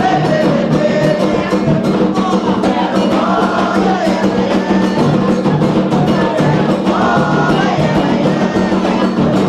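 Candomblé atabaque drums beating a fast, steady rhythm for the orixá Oyá, with voices singing over the drums.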